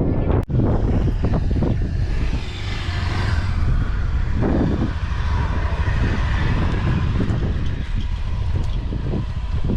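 A motor vehicle running with a steady low rumble, broken by a short drop-out about half a second in.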